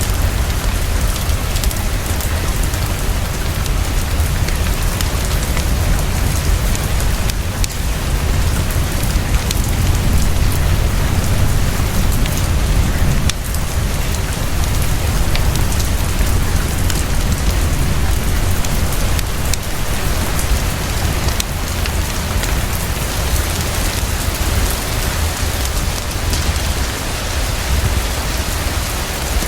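Heavy, fast, steady rainfall with a constant low rumble underneath. Occasional sharp clicks from a crackling wood fire are mixed in.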